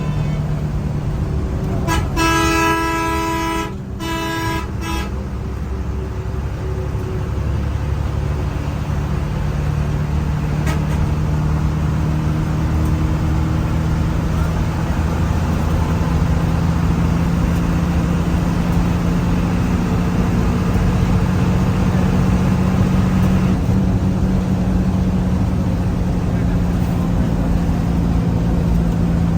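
Road vehicle running with a steady low engine drone. A horn honks about two seconds in, two blasts over roughly three seconds.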